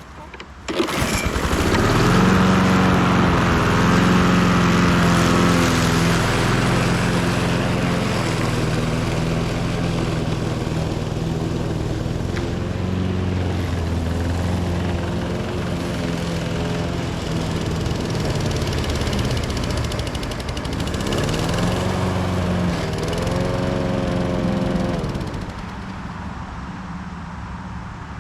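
A John Deere JS36 walk-behind lawnmower's small engine is started and catches about a second in, then runs steadily. Its pitch dips and climbs back around two-thirds of the way through, and the engine sound drops away near the end.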